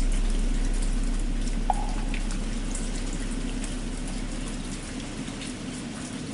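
Steady rain under the low hum of a struck bell, slowly dying away, with one light knock about a second and a half in.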